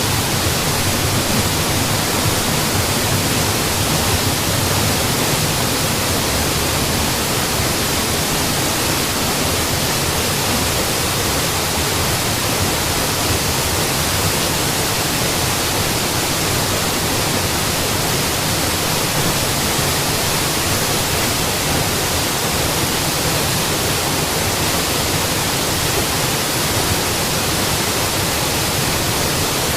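Mountain waterfall: water falling and splashing in a steady, even rush with no breaks.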